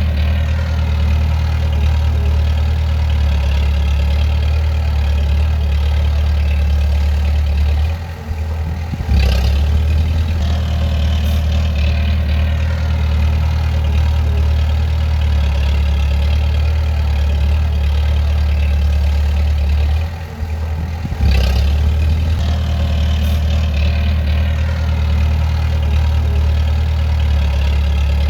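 Bulldozer's diesel engine running steadily. Its sound drops briefly about 8 and 20 seconds in, then comes back each time with a short, sharp surge.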